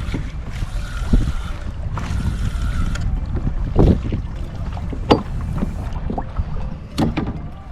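Wind buffeting the microphone and water against a kayak hull, a steady rumble, with four sharp knocks spread through it.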